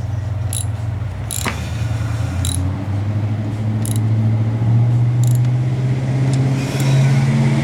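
Ford Bronco engine idling just after a cold start, a steady low running sound that grows somewhat louder partway through, with a few light ticks now and then.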